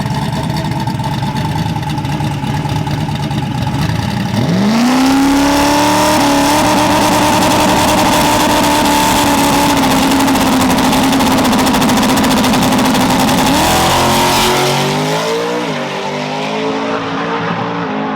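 Drag-racing truck's engine rumbling at low revs, then revving up sharply about four seconds in and holding high, steady revs for about nine seconds. Near the end the pitch drops and steps around as it comes off the throttle.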